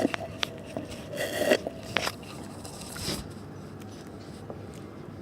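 Close-up crunching and chewing of Oreo cookies: a few sharp crunches and bites over about three seconds, then it goes quiet apart from faint hiss.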